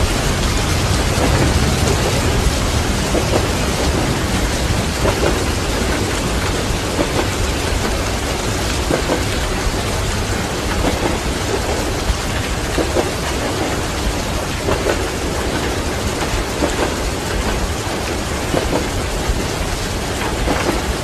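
Steady heavy rain over a low rumble of thunder, mixed with a train running along the rails and soft wheel knocks on the rail joints about every two seconds.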